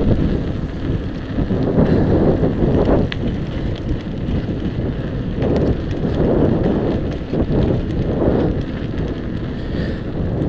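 Wind buffeting the microphone of a camera carried on a moving bicycle: a loud low rumble that swells and eases in gusts.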